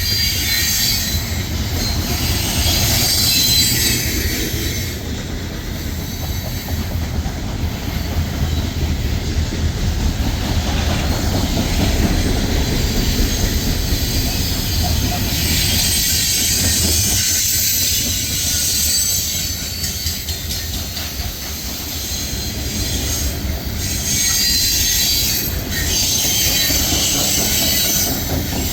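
Train rolling past: steady rumble of steel wheels on the rails, with high-pitched wheel and rail noise over it.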